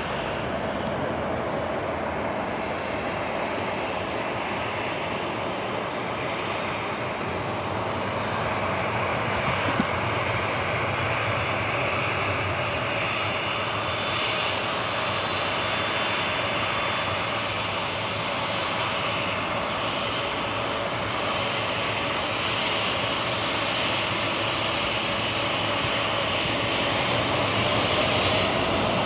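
Aircraft engines running with a steady whine, growing a little louder near the end as the pitch starts to rise.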